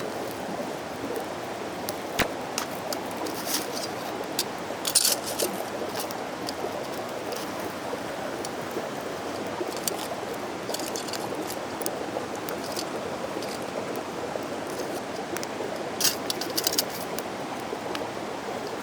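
Mountain stream flowing with a steady rush, with scattered sharp crackles and clicks over it, several in quick clusters about five seconds in and again near the end.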